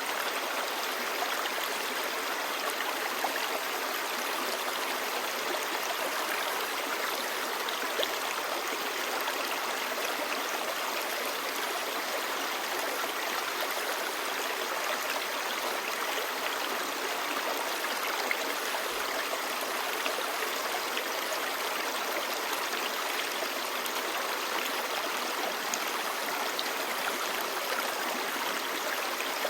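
Clear mountain stream babbling steadily over rocks: a continuous rush of water with small splashes and gurgles throughout.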